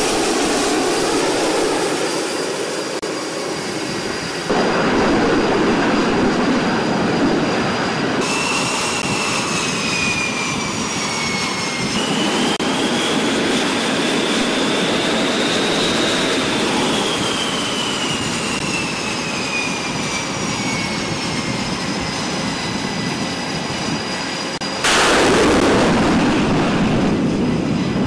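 F/A-18 Super Hornet jet engines running on deck while the aircraft are readied for catapult launch: a steady jet roar with a high turbine whine that rises and then slowly falls. The sound changes abruptly several times, and near the end it jumps to a louder, fuller roar.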